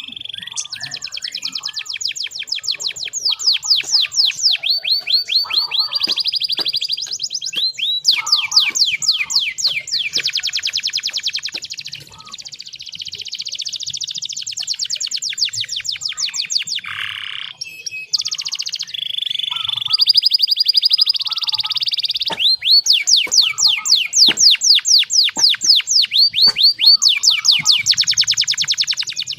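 Domestic canary singing a long song made of rapid trills, each a fast run of one note repeated many times before it switches to the next, with a couple of short breaks along the way.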